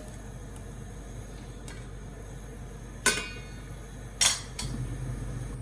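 Two sharp clinks of kitchenware knocking together about a second apart, the first ringing briefly, with a few faint ticks before them. A low steady hum sets in near the end.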